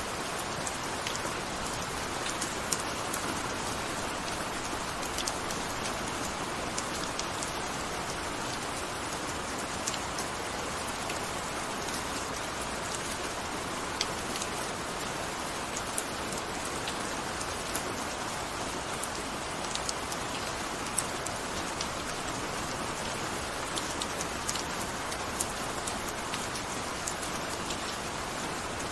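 Steady gentle rain: an even hiss of rainfall with scattered individual drops ticking on a surface.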